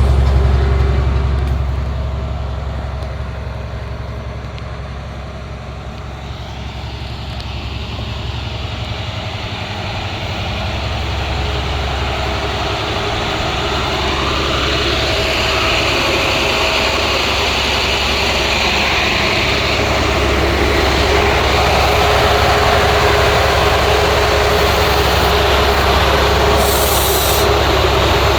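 School bus diesel engine (International MaxxForce DT 7.6-litre) running steadily. It eases off for a few seconds, then builds up again and holds at a higher level.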